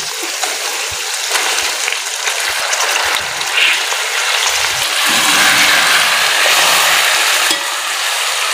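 Chicken pieces sizzling in hot ghee with fried onions and ginger-garlic paste, a steady frying hiss that grows louder about five seconds in.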